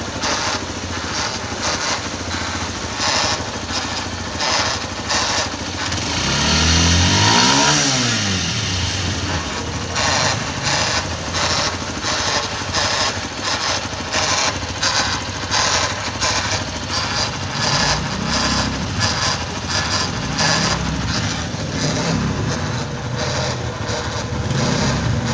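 TVS Sport BS6 single-cylinder engine running, revved up and back down once about six seconds in, with a repeated sharp knocking or rattling throughout. The uploader traces this noise, heard when the brake is pressed, to a loose nut under the magnet (flywheel) cover.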